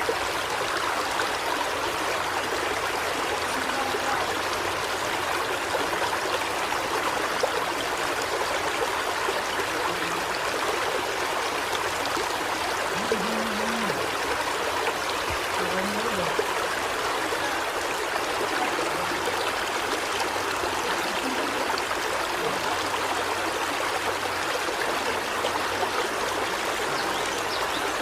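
Steady running water, a continuous rushing like a stream, unchanging throughout.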